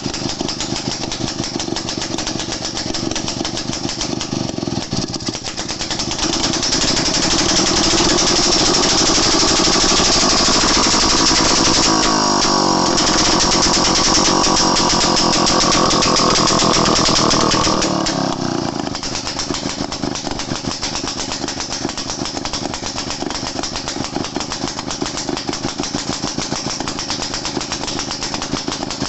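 Daihatsu Midget DKA's single-cylinder two-stroke engine running after its piston rings were reworked. It idles with a fast, uneven putter, is revved and held higher for about ten seconds, then drops back to idle.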